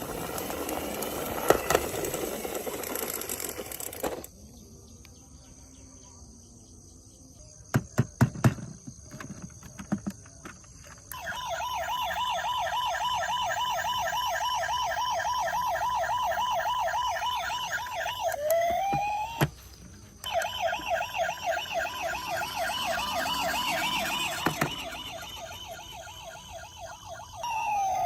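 Electronic siren of a toy emergency vehicle sounding a fast, steady warble from about eleven seconds in, breaking briefly with a rising whoop and a short gap, then warbling again until near the end. Before it there is an unclear noisy stretch at the start and a few sharp clicks.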